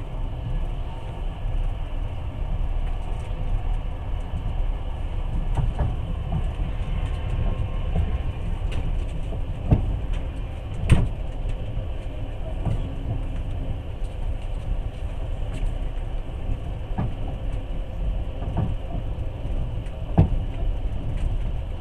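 Passenger train carriage running along the track, heard from inside: a steady low rumble with scattered knocks from the wheels and coach, the sharpest about eleven seconds in.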